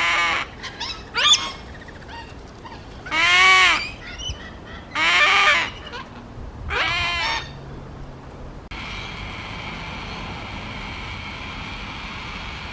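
A baby bird's harsh begging calls, five of them a second or two apart, each rising then falling in pitch. About two-thirds of the way in the calls stop and a steady hiss with a faint high whine takes over.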